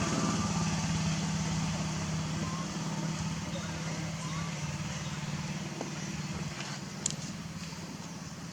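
A motor vehicle engine running with a steady low hum that fades away over the first five seconds, over outdoor background noise, with a sharp click about seven seconds in.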